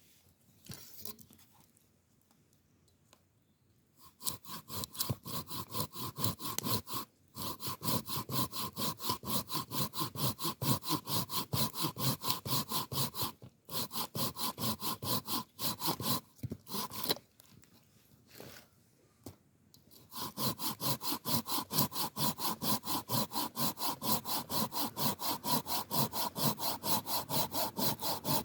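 Hand saw cutting wood in quick, even strokes, about four a second, with a scraping ring to each stroke. It starts a few seconds in, stops briefly, then pauses for several seconds in the middle before sawing on steadily.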